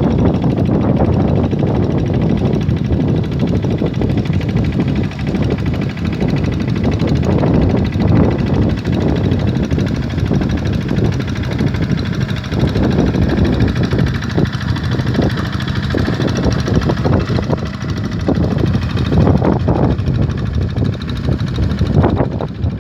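An engine running steadily, loud and low-pitched.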